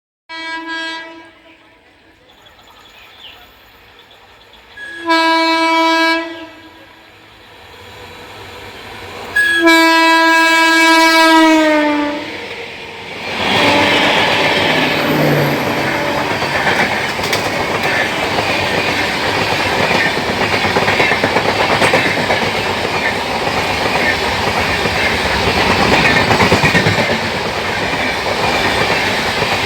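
Train horn sounding three times: a short toot, a blast of about a second, then a long blast that drops in pitch as it ends. After that, a train passes at speed with loud, steady rattling and clickety-clack of wheels over the rail joints.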